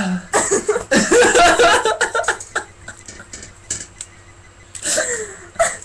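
Wordless vocal sounds from a person, loudest in the first two seconds, with a shorter burst about five seconds in.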